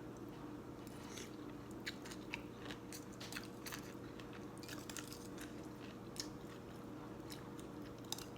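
A person eating a bowl of Thai boat noodles close to the microphone: chewing with a scatter of small wet clicks and crunches, over a faint steady hum.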